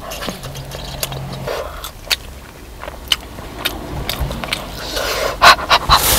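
A person chewing a mouthful of burger, with small wet clicks and crackles, then louder rustling and knocks near the end as something is handled.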